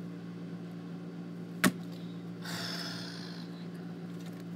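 Steady hum of a room air conditioner, with one sharp click about a second and a half in, then about a second of crackly rustling noise from slime being handled.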